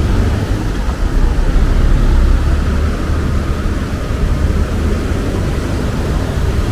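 Wind buffeting the microphone: a loud, gusting low rumble that eases a little about halfway through.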